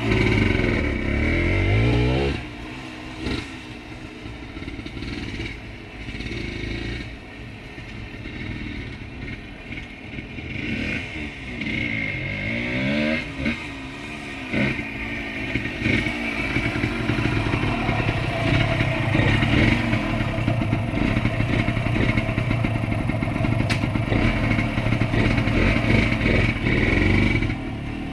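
1978 Yamaha DT100's single-cylinder two-stroke engine being ridden: loud at first, it drops back about two seconds in, rises and falls in pitch several times in the middle, then runs steadier and louder for the last part, with some clattering.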